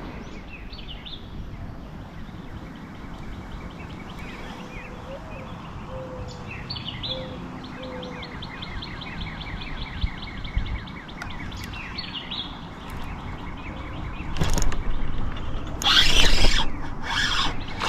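Songbirds singing over steady outdoor background noise, including a long fast trill of repeated notes. Near the end a few louder bursts of noise come in.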